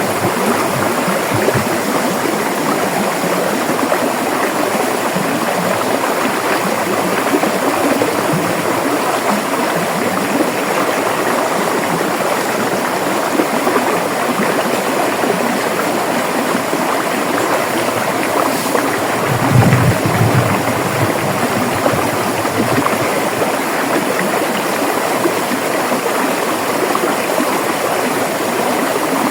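River water rushing and gurgling over rocks in a steady, even flow. A brief deeper surge comes about twenty seconds in.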